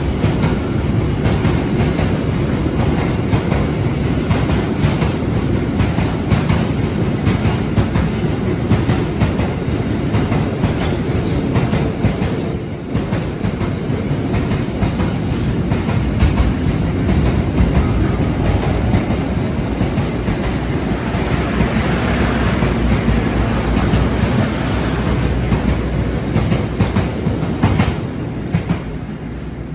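Container freight train's wagons rolling past, wheels clattering over rail joints with short high-pitched squeals. The noise eases off near the end.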